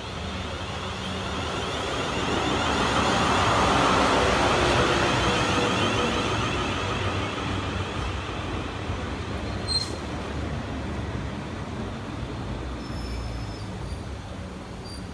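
South Western Railway passenger train running past along the platform, the noise of its wheels and motors swelling to its loudest about four seconds in and then easing as the carriages roll by. There is a single sharp click about ten seconds in.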